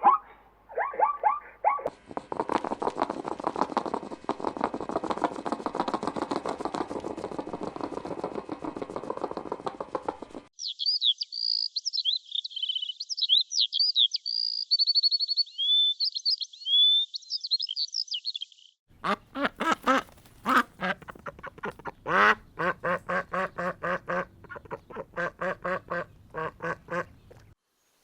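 A series of animal calls, mostly ducks quacking: a dense, rapid run of quacks, then a stretch of high, gliding bird chirps from about ten seconds in, then another run of separate repeated quacks near the end.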